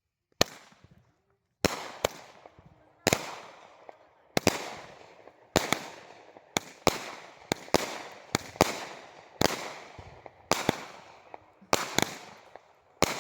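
Small consumer fireworks cake, Magnus Commando Jack, firing its shots one after another. Each shot is a sharp report followed by a fading crackle as the shell breaks. The shots start about half a second in and come about once a second, then faster and in pairs toward the end.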